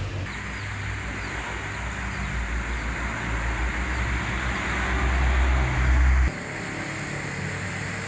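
Rain falling steadily, a dense even patter. Under it a low rumble grows louder, then cuts off suddenly about six seconds in.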